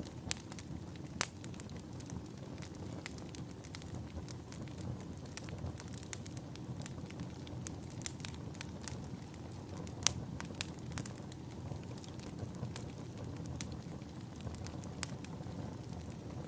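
Wood fire crackling in a fireplace: a steady low rush of burning with frequent irregular sharp pops and snaps, the loudest pop about ten seconds in.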